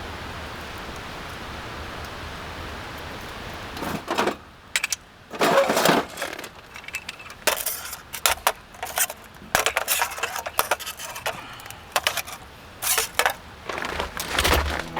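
A steady hiss, then a run of irregular clicks, knocks and metallic clinks from objects being handled, starting about four seconds in.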